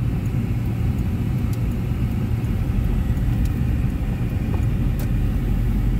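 Steady low rumble of a car driving, with road and engine noise heard from inside the moving vehicle.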